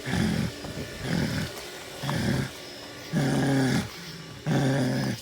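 A man's voice making low, wordless grunting sounds in a steady rhythm, about one a second, five in all; the last two are longer and held.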